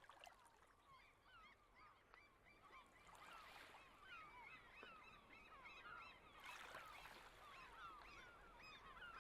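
A flock of gulls calling faintly, many short overlapping calls that rise and fall in pitch.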